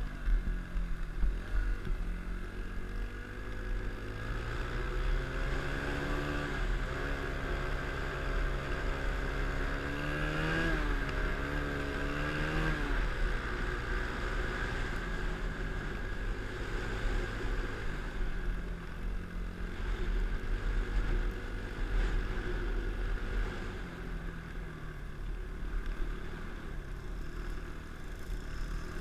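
An engine running steadily, its pitch shifting up and down several times between about six and thirteen seconds in, over a heavy low rumble.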